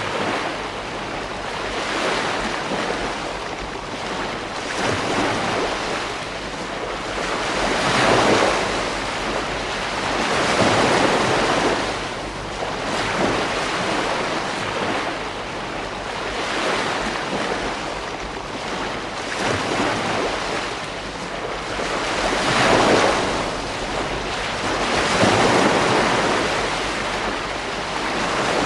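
Ocean waves breaking on a beach, one after another. The surf swells and fades every few seconds over a continuous wash.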